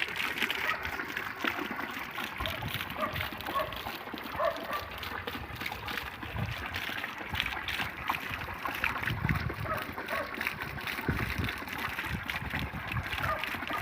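Rainwater running and splashing, a steady wash of water noise.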